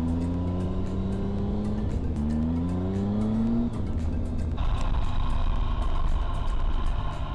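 Motorcycle's three-cylinder engine accelerating through the gears: the pitch climbs, dips at a gear change about two seconds in, climbs again, then falls away as the throttle closes about halfway through. Steady low wind rumble underneath, with background music coming in after the engine note drops.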